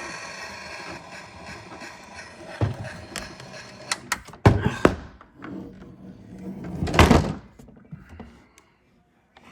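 Miele washing machine's motor hum with a steady whine dying away, then a few heavy thunks about two and a half, four and a half and seven seconds in.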